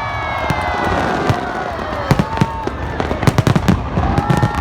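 Fireworks display: a rapid, uneven series of bangs and crackles from bursting shells, with several long whistling tones sliding downward in pitch.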